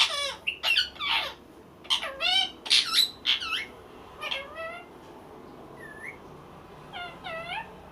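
Pet parrot making a series of short, high-pitched calls that slide up and down in pitch, some meow-like, coming quickly at first, pausing in the middle, then a few more near the end.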